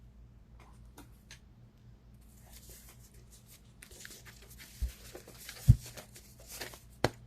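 Tarot cards being handled and shuffled: soft rustling and light clicks, with two dull thumps about five and six seconds in.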